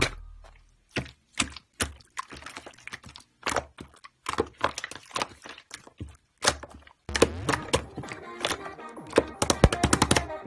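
Slime being squeezed and poked, giving a string of sharp clicks and pops; background music comes in about two-thirds of the way through.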